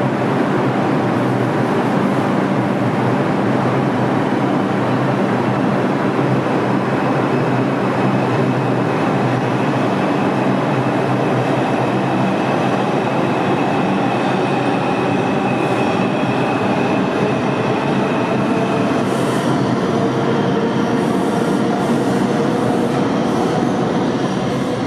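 New York City subway train running on the track, a loud steady rumble of wheels and cars with a faint high whine in the middle.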